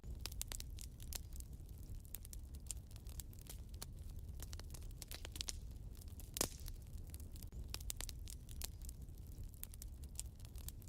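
Wood fire burning in a fireplace, crackling with many small irregular snaps and one louder pop about six seconds in, over a low steady rumble.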